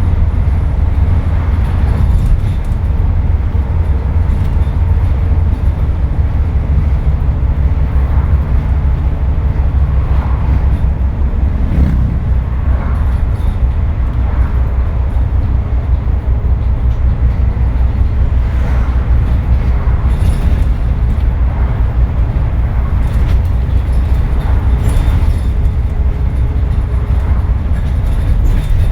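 Scania N230UD double-decker bus's five-cylinder diesel engine working hard under acceleration, a loud steady low drone heard from on board. The engine note changes about twelve seconds in.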